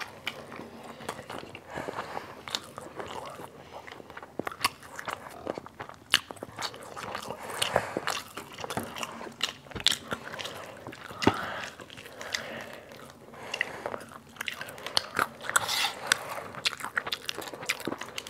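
Two people biting and chewing crispy fried chicken close to a clip-on microphone: many short, sharp crunches of the fried crust and wet chewing sounds, irregular throughout.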